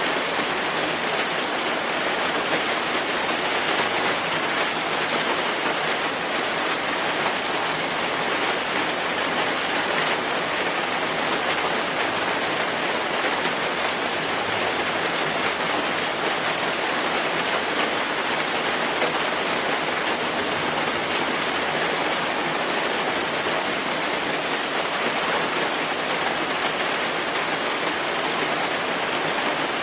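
Steady rainfall, a dense even hiss of rain with scattered individual drops ticking on a surface.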